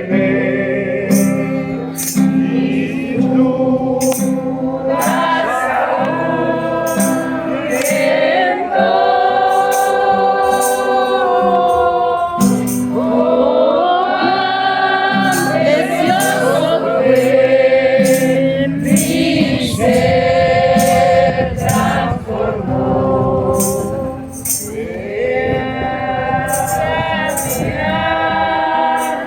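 Group singing a Christian worship song with instrumental accompaniment: a steady bass line and tambourine shakes at regular intervals.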